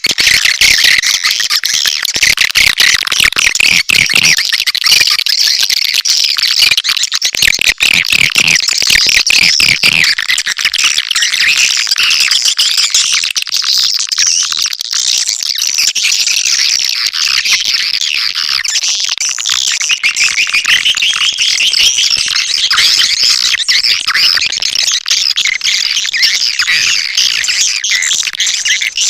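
Swiftlet calls played as a lure sound: a dense, continuous chatter of high twittering chirps.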